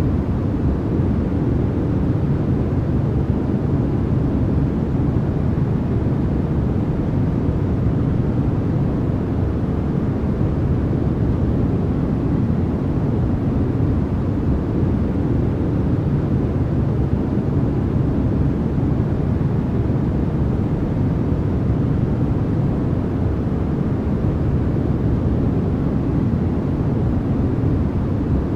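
Steady, unbroken noise track for sleep and focus, sold as white noise but weighted low: a deep, even rush with little hiss, unchanging in level throughout.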